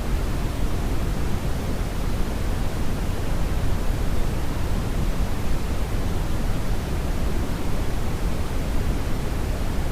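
Steady Brownian noise: an even, deep hiss with most of its weight in the low end, unchanging throughout.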